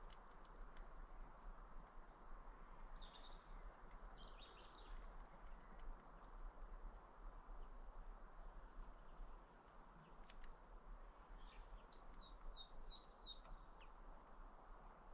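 Small birds chirping faintly, with a quick run of about five short down-slurred notes near the end. Scattered sharp clicks sound among the calls, over a steady faint hiss.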